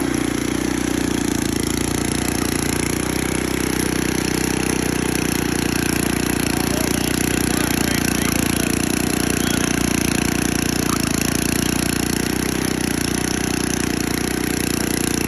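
Troy-Bilt Horse tiller's 6 hp Tecumseh single-cylinder engine running steadily.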